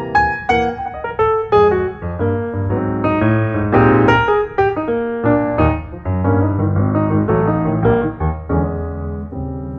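Background piano music: a run of struck notes, several a second, thinning out and growing quieter toward the end.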